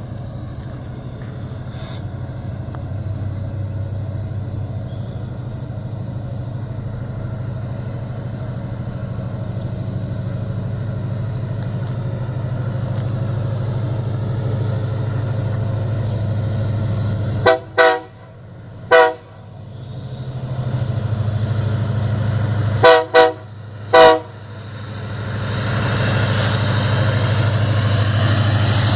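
Diesel-electric freight locomotives running with a steady low engine drone that grows louder near the end. The train horn sounds twice, each time as three short blasts, the first group just past halfway and the second about five seconds later.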